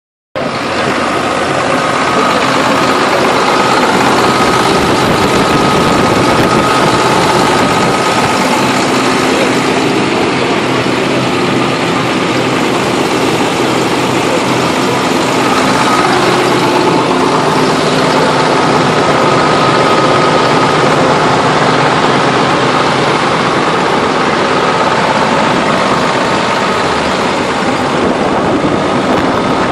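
A large engine idling steadily, starting abruptly about half a second in.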